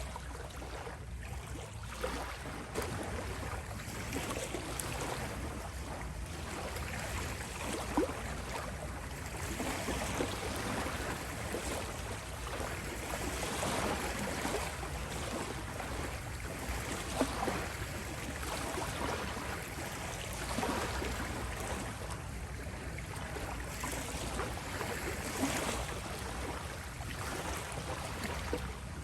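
Gentle ocean waves washing onto a beach, a steady surf wash with a low rumble that swells and eases every few seconds as waves come in and draw back.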